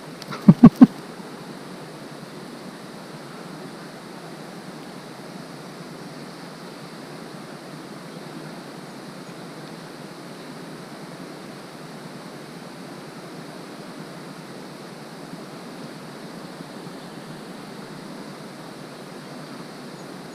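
Steady rush of flowing river water. About half a second in, three quick, very loud thumps close to the microphone.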